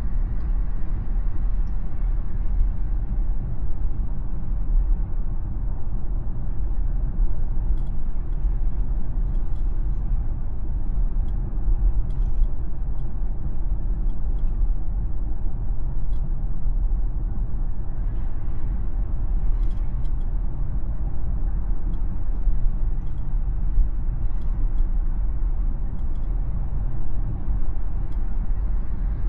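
Steady low road and tyre rumble of a Tesla driving at speed, with no engine note.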